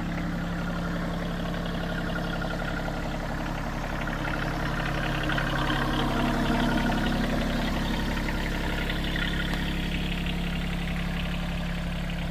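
Bad Boy 3026H compact tractor's engine idling steadily, growing a little louder for a few seconds in the middle.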